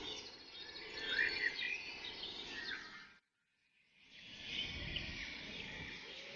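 Outdoor ambience with birds chirping, cut off abruptly about three seconds in, then returning and slowly fading.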